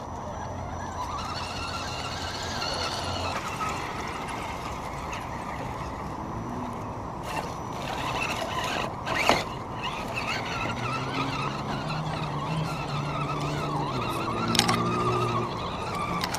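Electric motors of radio-controlled crawler trucks whining and shifting in pitch as they crawl, with two sharp knocks about nine and fourteen and a half seconds in.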